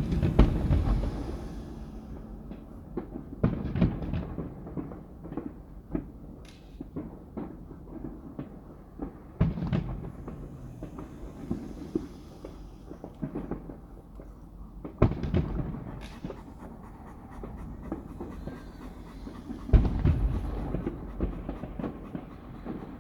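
Fireworks shells bursting every few seconds, each boom trailing off in a low rumble. A dog pants close to the microphone.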